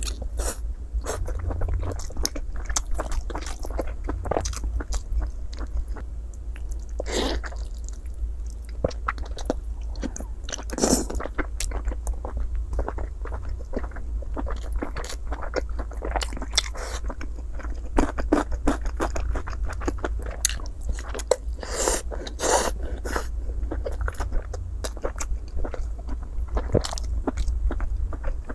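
Chewing and biting sounds of a person eating braised pork belly with rice: irregular mouth smacks and clicks throughout, over a steady low hum.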